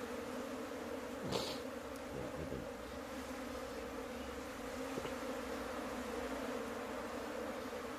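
Many honeybees buzzing in a steady drone around the opened hive. A short noise cuts through about a second and a half in.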